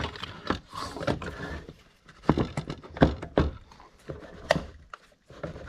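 Irregular clicks and knocks of small parts and tools being handled on a workbench, about a dozen sharp taps with quiet gaps between them.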